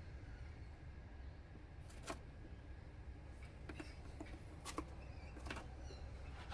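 Faint steady low hum with about five sharp, faint clicks scattered through it.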